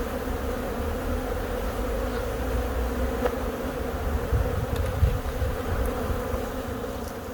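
Many honeybees from a colony being removed from a tree buzzing together in a steady hum. There is low rumble under the buzz and a brief knock about five seconds in.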